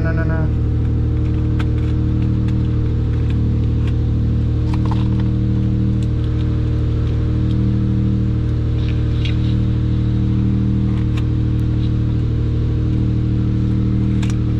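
2001 Toyota 4Runner's 3.4-litre V6 idling steadily and evenly, a smooth hum with no misses. Scattered light clicks and rustles sound over it.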